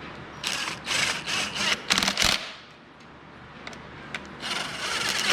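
Cordless power tool running intake manifold nuts and bolts down on a Zetec engine in short bursts: several quick bursts in the first two seconds, then one longer burst near the end.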